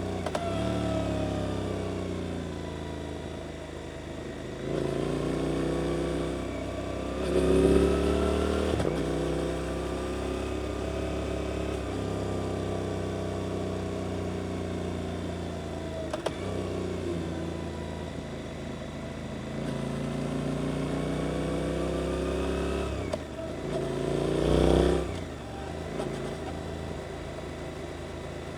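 Suzuki GSX-8S 776 cc parallel-twin engine through an Arrows aftermarket exhaust, revs rising and falling through bends. It surges hard twice, about 7 and 24 seconds in, each time rising in pitch and then dropping off sharply.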